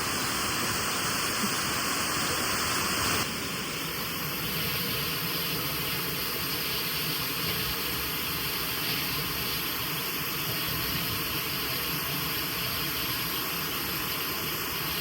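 Waterfall's steady rush of falling water, with an abrupt change in its tone about three seconds in.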